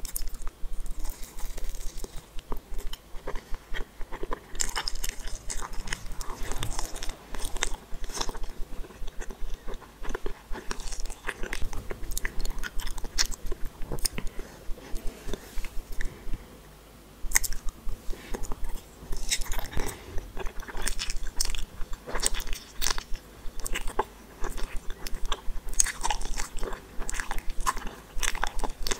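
Close-miked biting and chewing of gummy candy balls: dense runs of short mouth clicks and smacks, with a brief lull about sixteen seconds in.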